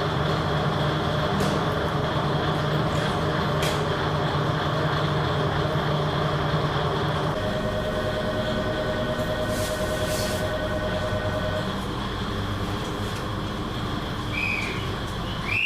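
Diesel engine of a 1965 KiHa 20-series railcar running steadily, its tone changing about halfway through as a held whine sets in for a few seconds. Two short high squeals come near the end.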